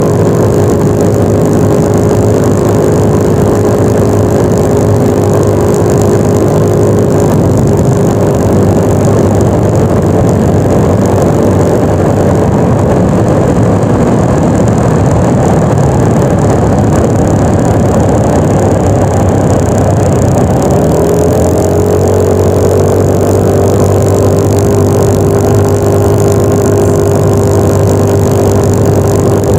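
Yamaha NMAX 155 scooter's single-cylinder engine running at a steady cruise under wind and road noise. Partway through the engine note fades into the wind, then rises again and holds steady.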